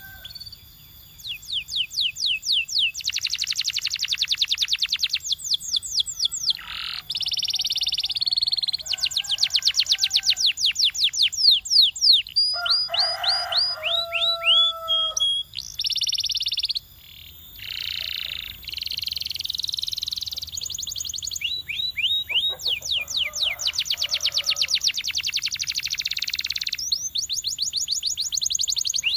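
Domestic canary singing: long trills of fast repeated high notes, broken by short buzzy rolls and, about halfway through, a few lower whistled notes.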